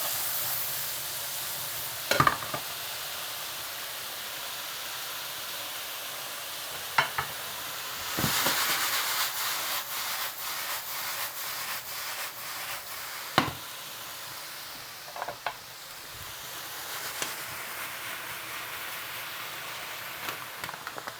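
Potatoes, peppers and onions sizzling as they fry in chicken fat in a pan, with a utensil knocking against the pan five or six times as they are stirred. The sizzle swells for a few seconds about eight seconds in.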